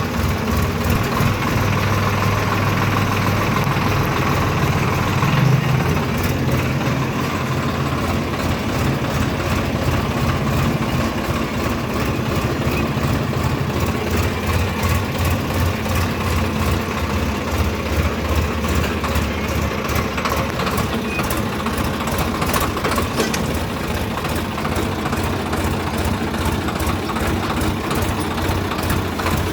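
Swaraj tractor's diesel engine running, with a brief rise in revs about five seconds in, then settling to a steady, even beat.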